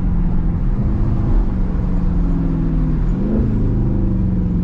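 Dodge 392 Hemi V8 running under way, heard from inside the cabin, its pitch rising about three seconds in as the car accelerates.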